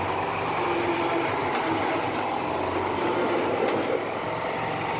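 Riding lawn tractor engine running steadily.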